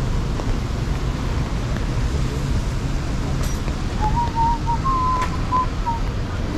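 Street ambience: a steady low rumble of city traffic with wind noise on the microphone. About four seconds in, a short run of high whistled notes lasts for about two seconds.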